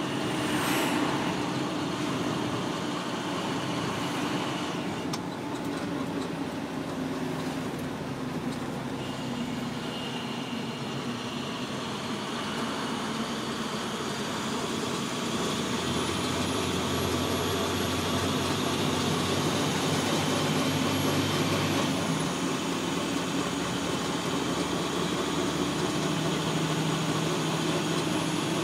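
Motor vehicle driving along, a steady rumble of engine and road noise. A low hum swells for several seconds in the middle.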